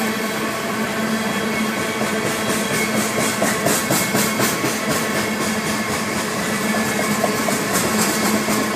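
Loaded coal hopper cars of a freight train rolling past on the rails: a steady rumble and hiss of steel wheels on track with a low hum. Rapid clicking from the wheels comes in about three seconds in and again near the end.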